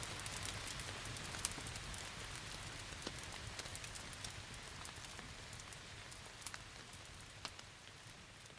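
Steady rain hiss with sharp, scattered crackles of a wood fire, the whole mix fading out gradually.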